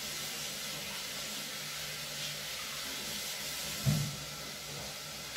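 Steady sizzling hiss of onion and vegetables sautéing in olive oil in a pot, with a single low thump about four seconds in.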